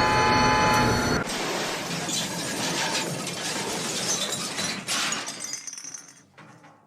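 Train wreck: a steady high squeal cuts off about a second in and gives way to a long crash with glass shattering, fading out over several seconds as the train derails after emergency braking.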